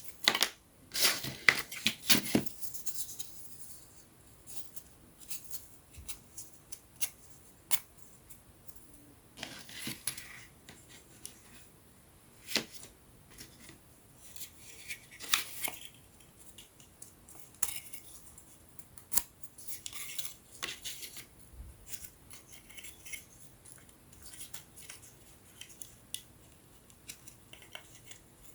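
Thin laser-cut wooden puzzle pieces being handled and fitted together: irregular sharp clicks and light taps, with a few short clusters of rapid clicking and scraping.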